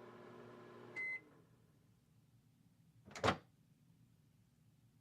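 Microwave oven running with a steady hum while heating a water bottle; about a second in the hum stops with a short beep, the end of the heating cycle. About two seconds later comes a single sharp clack.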